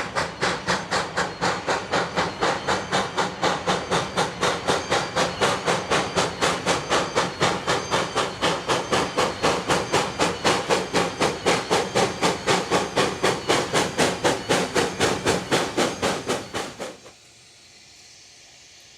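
Steam locomotive working hard, its exhaust beating out rapid, even chuffs about four a second. The beats cut off suddenly about two seconds before the end.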